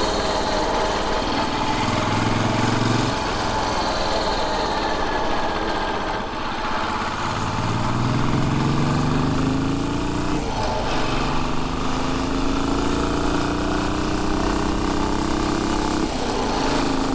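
Royal Enfield Bullet 500's single-cylinder engine pulling the bike along. Its pitch climbs in each gear and drops sharply at gear changes about three, ten and sixteen seconds in.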